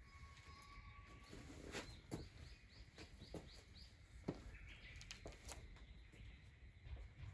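Faint small-bird calling: a quick run of about eight high chirps, roughly five a second, a couple of seconds in, then a short rising call. A few sharp clicks and knocks stand out against the quiet, the loudest about two and four seconds in.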